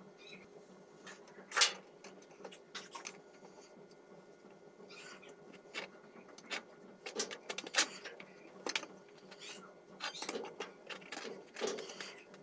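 Irregular clicks and light knocks of hand tools and parts being handled during washing-machine disassembly, with one sharper knock about a second and a half in, over a faint steady hum.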